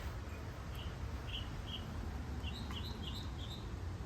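A small bird chirping cheerfully: short high chirps every half second or so, then a quicker run of chirps about two and a half seconds in, over a steady low background hum.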